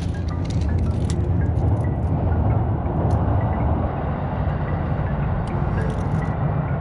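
Steady outdoor background noise with a deep rumble, with a few faint ticks and short chirps over it.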